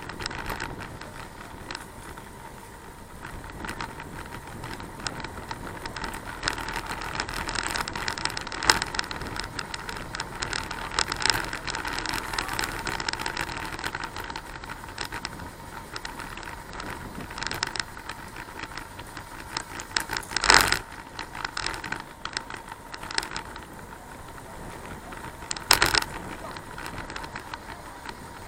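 Bicycle being ridden, rattling and clicking over the road, with a steady rush of road and wind noise. Two sharp, louder knocks come about twenty and twenty-six seconds in.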